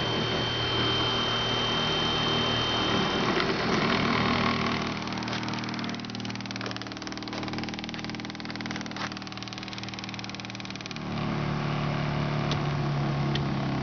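30 lb thrust electric trolling motor running with a steady hum. It drops to a lower speed about five seconds in and comes back up about eleven seconds in.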